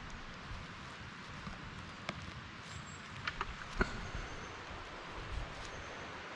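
Outdoor forest ambience: a steady hiss with low rumble, broken by a few sharp clicks or snaps, the loudest nearly four seconds in.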